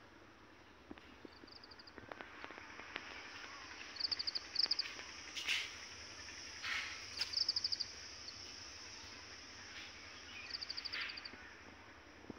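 Outdoor garden ambience: a bird gives short, rapid chattering trills several times, a few seconds apart, over a steady high hiss.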